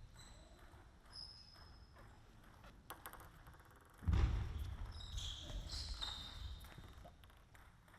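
Table tennis hall sounds: a few sharp clicks of a ping-pong ball, with short high squeaks of shoes on the court floor. About halfway through a sudden low thud and rumble rises and fades over a few seconds.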